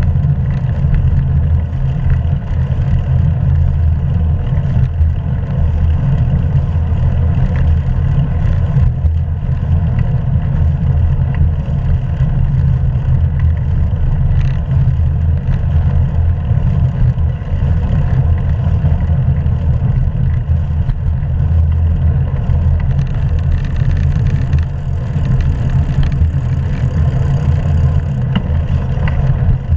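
Steady, loud wind rumble on the microphone of a GoPro action camera riding along on a moving bicycle, with tyre and road noise underneath.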